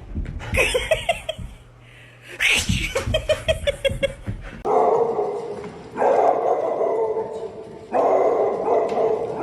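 A dog vocalizing in quick, pitched yips and whines that come in rapid pulses, followed by a denser, more continuous stretch with short breaks.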